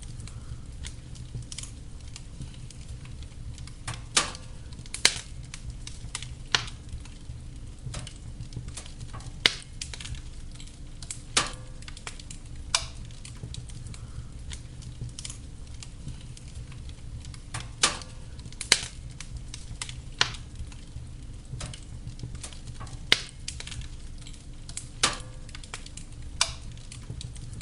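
Wood fire burning in a fireplace: a steady low rumble of flames with sharp crackles and pops every second or two, some of them loud.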